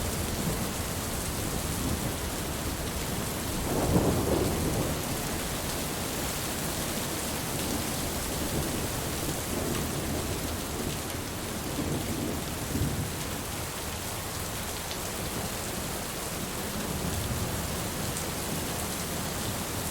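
Steady heavy rain hissing, with rolling thunder: a louder low rumble swells about four seconds in, and fainter rumbles follow later.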